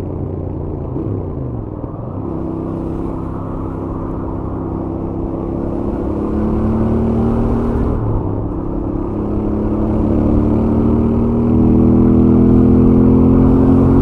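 Stock Royal Enfield Interceptor 650 parallel-twin engine accelerating on the highway. The note drops briefly about two seconds in and again about eight seconds in, like up-shifts, and each time the pitch rises again as the revs climb. It grows louder toward the end.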